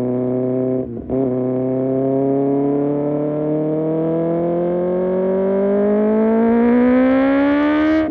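Kawasaki ZX-6R inline-four through an Arrow race exhaust, accelerating. A quick upshift about a second in briefly cuts the sound. The revs then climb steadily through the gear for about seven seconds and drop with the next shift at the very end.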